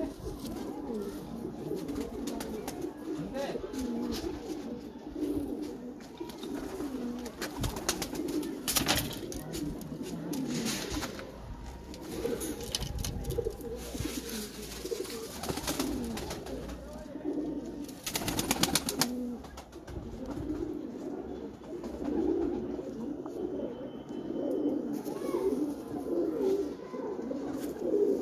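Pigeons cooing over and over, low and wavering, with a few short rushes of noise partway through.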